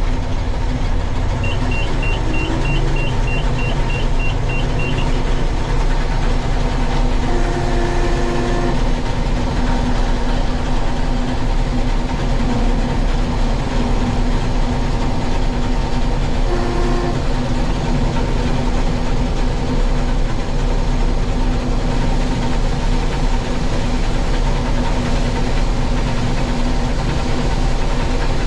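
International Harvester 1440 Axial-Flow combine running steadily while harvesting soybeans: the engine and threshing machinery give a constant loud drone. A high, rapid beeping sounds for a few seconds near the start, and brief mid-pitched tones come twice.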